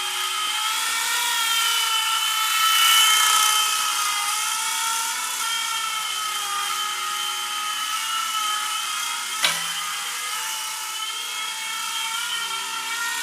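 Sky Rover Swift toy RC helicopter in flight: its small electric motors and twin stacked rotors whine steadily, the pitch wavering slightly as it flies. A single sharp click sounds about nine and a half seconds in.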